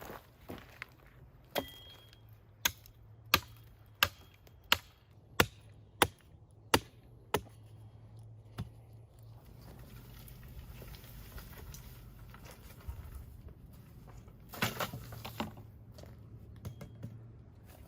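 Wooden branches being chopped with a blade: about nine sharp strikes at an even pace, roughly one and a half a second, followed later by a short cluster of cracking and rustling.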